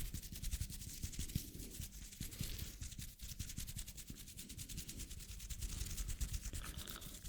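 Hands rubbing together close to the microphone, a dense crackly run of fine ticks with a low rustle underneath.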